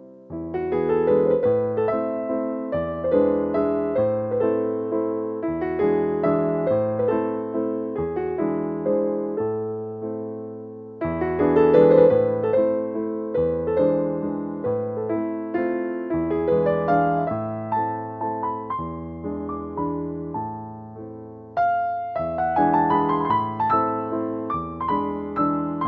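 Background music: a solo piano waltz, its phrases restarting about eleven and twenty-one seconds in.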